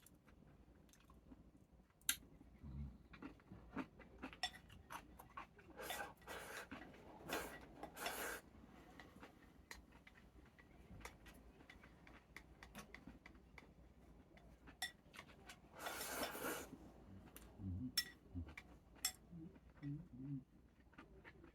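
A person eating a meal, quiet overall: scattered clicks of utensils against dishes, a few short noisy bursts, and chewing.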